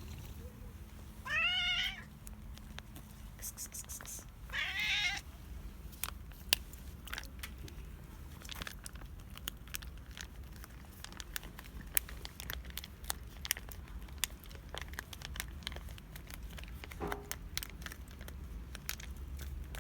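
Ginger cat meowing twice, each call rising then falling, the hungry cat asking for food. Scattered light clicks and taps follow.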